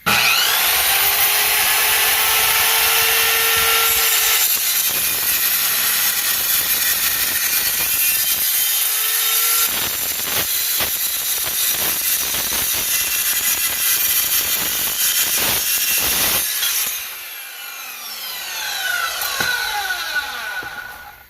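Circular saw fitted with a 7¼-inch Admiral metal-cutting blade, cutting through 3-inch steel channel: a loud, steady screech that starts abruptly and holds for about sixteen seconds. Near the end the cut finishes and the saw's whine falls in pitch as the blade spins down.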